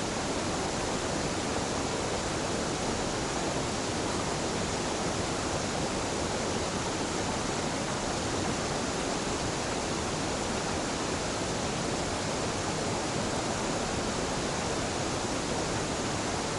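Waterfall where a mountain river and a stream meet: water falling with a steady, even rush that does not change.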